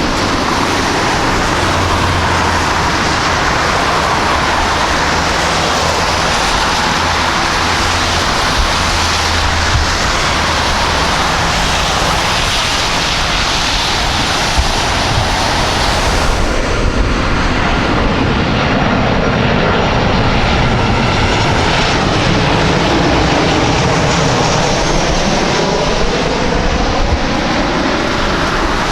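Airliner engines running loud and steady at close range as the aircraft moves on the airfield. In the second half, tones in the engine sound sweep down and then back up in pitch as it passes.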